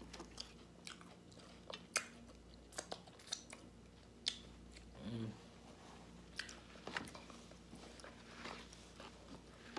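A person chewing fast food with her mouth close to the microphone: soft, scattered crunches and wet mouth clicks. A short voiced murmur comes about five seconds in.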